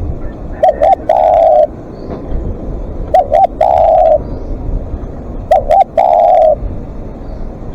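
Spotted dove cooing: three call phrases about two and a half seconds apart, each two short coos followed by one longer drawn-out coo.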